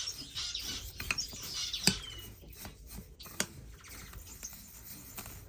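Bird seed rustling and clicking as it is mixed in a container, with a few short high chirps from finches in the room, one a brief falling whistle about two seconds in.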